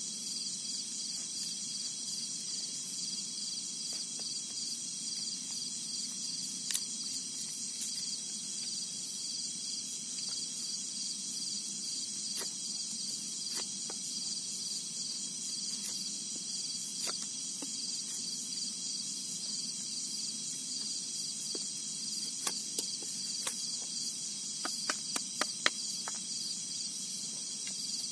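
A steady chorus of crickets or similar insects, a high, fast pulsing trill. A few sharp clicks break through now and then, with a quick run of them near the end.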